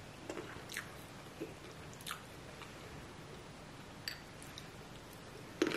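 Quiet close-up chewing of chicken wings, with soft scattered wet mouth clicks and smacks and a louder smack just before the end.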